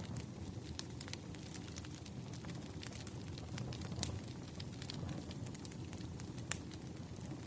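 Campfire crackling: irregular sharp pops and snaps over a steady low rumble of burning, with a louder pop about four seconds in and another about six and a half seconds in.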